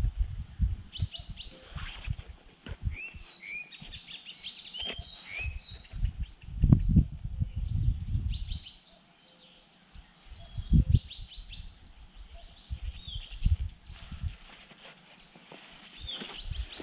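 Small birds chirping, many short calls with quick pitch glides throughout. Irregular low rumbles come and go underneath; the loudest are about seven and eleven seconds in.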